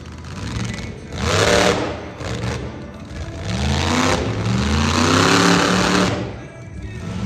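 Monster truck engine revving hard: a short burst about a second in, then a long climb in pitch from about three and a half seconds that holds until about six seconds, before the revs drop off briefly near the end.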